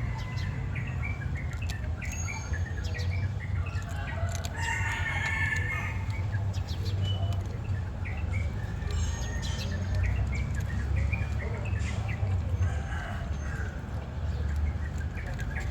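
Birds chirping in short calls, with one longer pitched call about four to six seconds in, over a steady low rumble.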